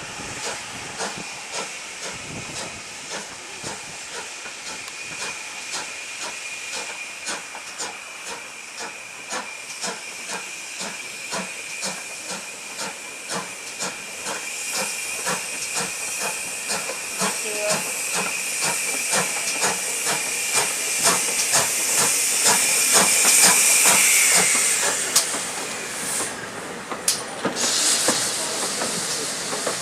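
Steam locomotive with a steady hiss of escaping steam that grows louder about halfway through and cuts off sharply a few seconds before the end, over a regular run of sharp clicks.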